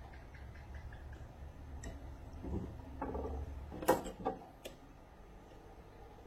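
Hand tools and metal parts being handled during a steering rack rebuild: a few light ticks, then a short clatter with a sharp click about four seconds in and two smaller clicks just after.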